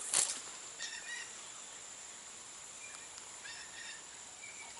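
A bird calling outdoors, short calls in two clusters, about a second in and again around three and a half seconds in, over a steady high-pitched drone. There is a brief noisy burst right at the start.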